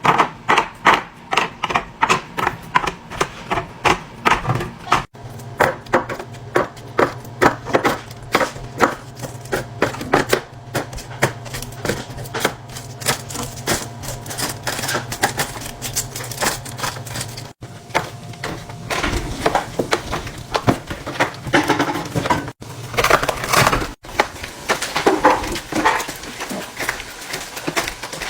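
Quick clicks, taps and light knocks, several a second, of food containers and items being handled and set down while a refrigerator is restocked, in short clips that cut off abruptly a few times. A low steady hum runs under the middle stretch.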